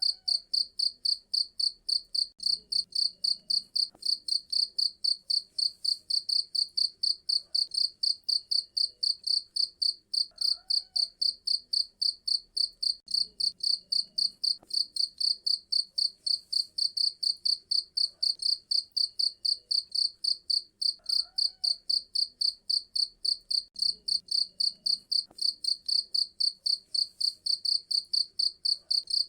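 Cricket chirping steadily: a fast, even train of shrill chirps, about five a second, without pause.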